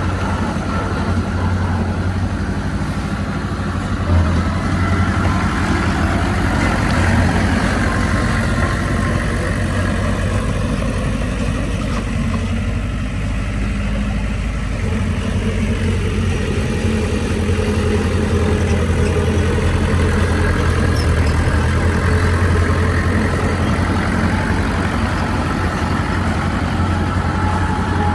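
Heavy diesel engine of earthmoving machinery running steadily with a deep, continuous drone, its tone shifting slightly over time.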